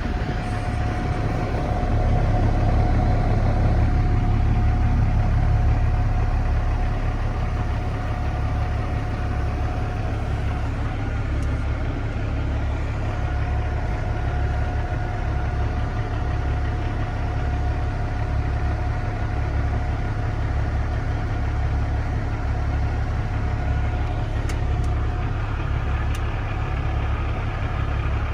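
Compressed-natural-gas engine of a 2014 Kenworth T800 semi truck idling with an even, pulsing low rumble and a thin steady whine. It is a little louder for a few seconds near the start, then settles.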